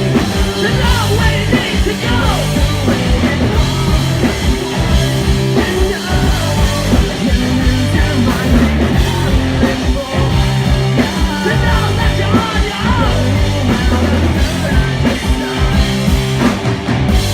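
Live punk rock band playing a song loudly, with a full drum kit and a singer's vocals over the band.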